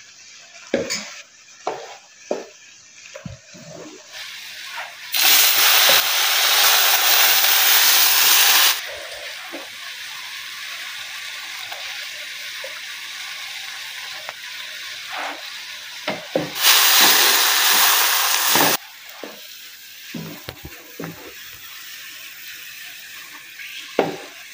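Frying sizzle: onion and tomato masala frying in ghee in a wok, with a few knocks of the stirring spoon at first, and butter sizzling on a paratha on a hot iron tawa. Two loud stretches of sizzling hiss, each a few seconds long, start and stop abruptly over a quieter steady sizzle.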